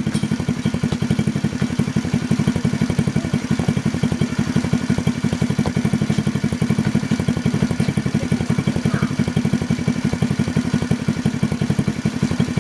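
Honda Cub-based chopper's 110cc single-cylinder four-stroke engine idling with a steady, even putter.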